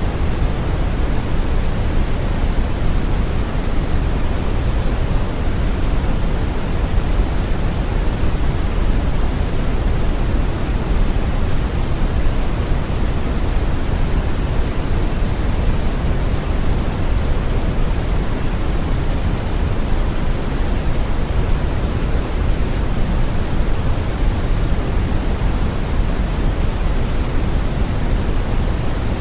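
Steady brown noise: a deep, even rushing hiss with its weight in the low end, unchanging throughout.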